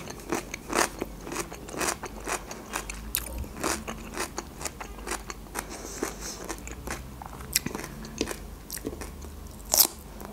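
Close-miked chewing of fresh cucumber: crisp wet crunches about twice a second, with a louder bite near the end.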